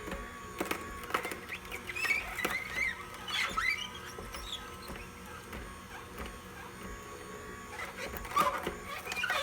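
AMZChef slow masticating juicer running on beets: a steady faint motor hum under repeated high, wavering squeaks and creaks as the auger crushes the beets against the screen.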